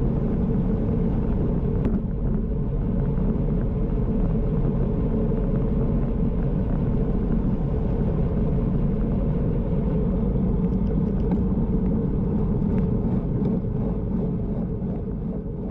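Steady low rumble of wind and road noise on a GoPro mounted on a moving bicycle, with a few faint clicks, fading near the end.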